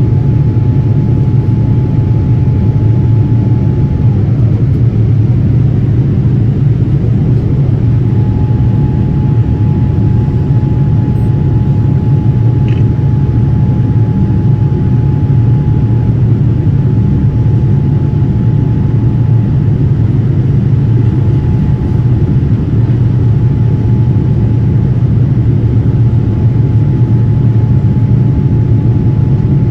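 Airliner cabin noise in flight: a steady deep roar of engines and rushing air. Above it runs a faint thin whine that drops out for a few seconds near the start.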